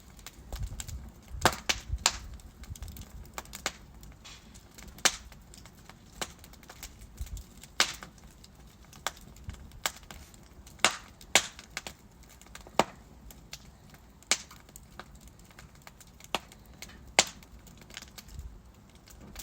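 Wood fire in a fireplace crackling: burning logs give off irregular sharp pops and snaps over a faint steady hiss, several louder pops standing out.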